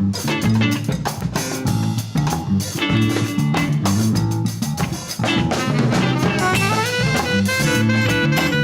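Latin fusion band playing live: a drum kit and bass groove, with a stepping melody line coming in about six seconds in.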